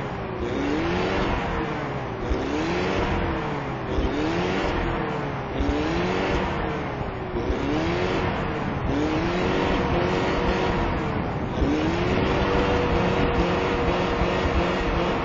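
Pickup truck engine revving up and down over and over, about once a second, while its tires spin in deep snow; near the end the revs hold steady. The truck is stuck in a snow-filled ditch.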